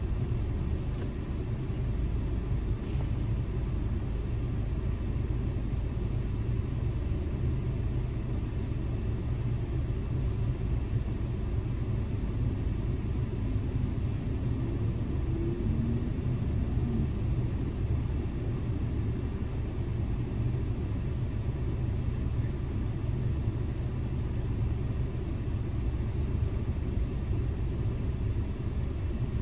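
Steady low rumble of a car idling while stopped, heard from inside the cabin.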